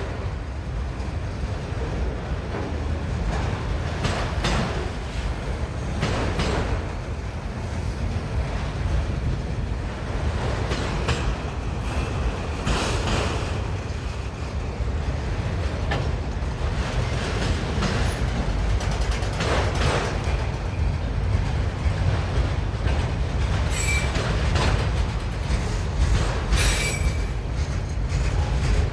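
Long freight train passing close by: a steady rumble of wheels on rail, broken by sharp clanks every few seconds and a few short wheel squeals near the end.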